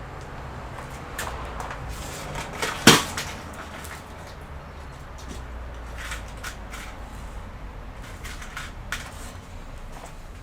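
Scattered clicks and knocks of hard plastic computer parts being handled during disassembly, with one sharp, loud click about three seconds in, over a low steady hum.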